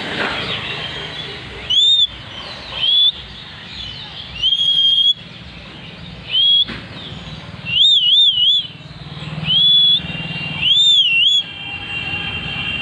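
A parrot giving a series of short whistled calls, about seven in all, each a clear note that rises and falls, one of them wavering up and down three times in quick succession. A steady low hum runs underneath.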